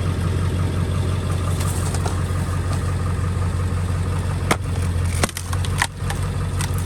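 Diesel truck engine running steadily at idle, with a few sharp cracks near the end.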